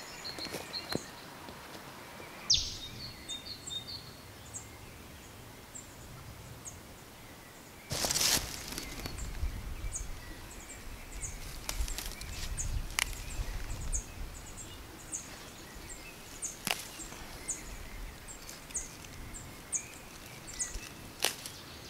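A small bird repeating short high chirps over outdoor ambience. From about eight seconds in, plants rustle and a few sharp snaps sound as flower heads are picked by hand.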